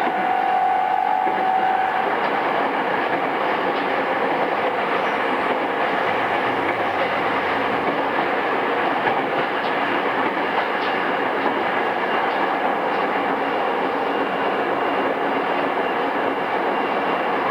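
Inside a JR East E217-series electric commuter train motor car running along the line: a steady rumble of wheels on rail with scattered clacks over rail joints. A thin high whine, rising slightly, stops about two seconds in.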